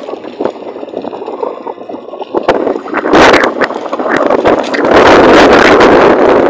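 Wind buffeting the microphone on a moving bicycle: a loud, gusty rush full of sharp pops. It eases for the first couple of seconds, then comes back at full strength about three seconds in.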